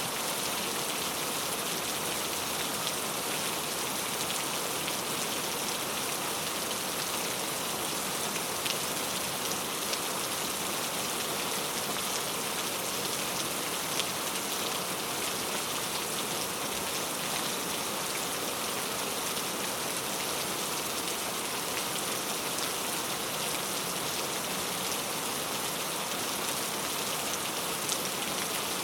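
Heavy rain falling steadily on mango leaves: a dense, even patter with the odd louder drop standing out.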